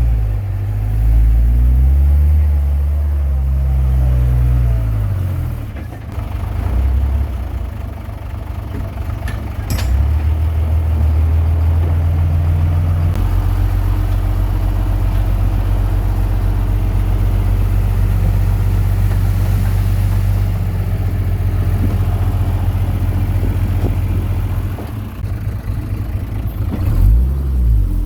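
Komatsu D21P bulldozer's diesel engine working, its note rising and falling for the first few seconds as it is throttled up and down, then holding steady under load.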